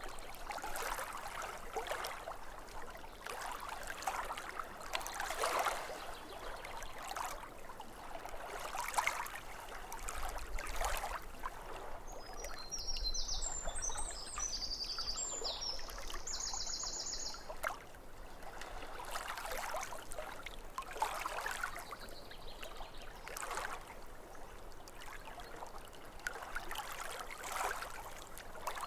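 Lake water lapping at the shore in soft, irregular splashes every second or two. About halfway through, a bird sings a few short, high phrases.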